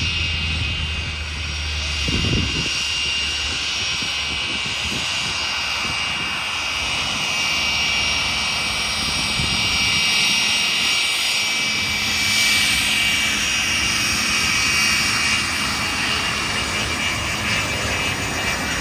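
Aircraft engines running as aircraft taxi on the airfield: a steady engine noise with a high whine throughout, swelling about twelve seconds in.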